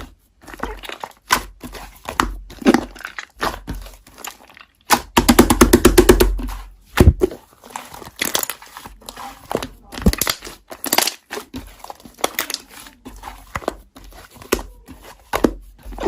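Slime being squished and stretched by hand, making crinkly crackles and sharp clicking pops, with a loud, fast run of pops about five seconds in.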